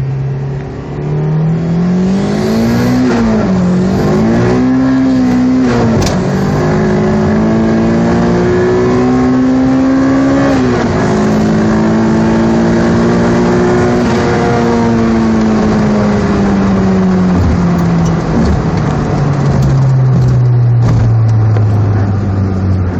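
Turbocharged B18C1 four-cylinder of a 1995 Acura Integra GSR running hard through the gears. The engine note climbs and drops back at each upshift, about three and a half, six and eleven seconds in. It then eases off, and the note falls slowly as the car slows.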